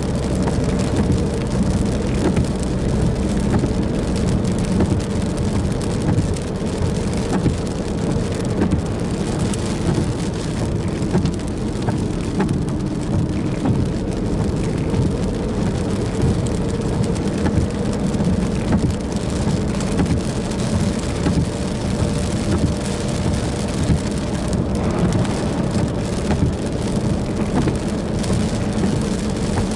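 Steady rain falling during a thunderstorm, many individual drops ticking, over a faint steady low hum.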